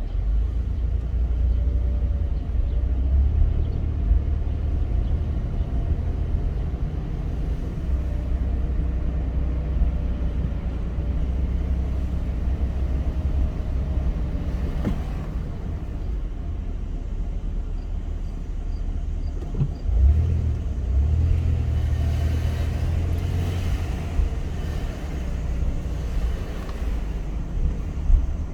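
A car driving, heard from inside: a steady low rumble of engine and road noise, with a brief bump about twenty seconds in.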